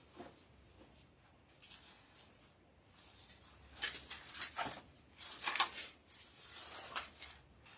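Thin Bible pages being leafed through: a few soft, papery rustles as the pages are turned.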